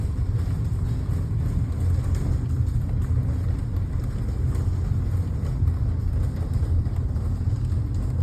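Strong storm wind buffeting the microphone: a steady, loud low rumble.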